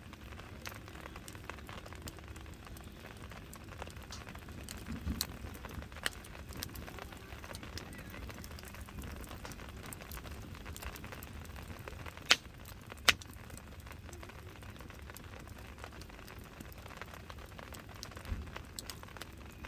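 Wood fire crackling: a steady hiss with many small irregular snaps, and two loud sharp pops a little under a second apart past the middle.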